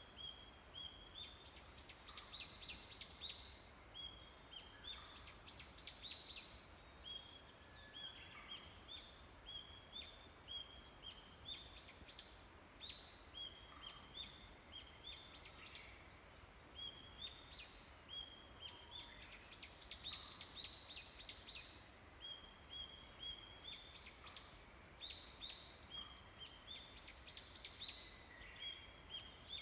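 Many small songbirds singing together in a forest. One song repeats over and over: a short held high note followed by a quick run of falling notes, with other chirps mixed in.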